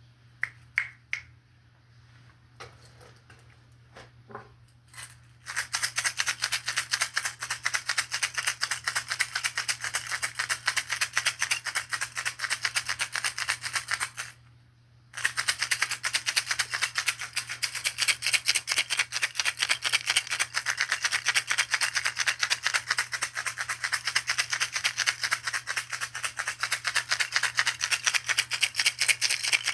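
A hand-held shaker rattle shaken fast and evenly in two long runs, with a short break about halfway. A few scattered taps come in the first seconds.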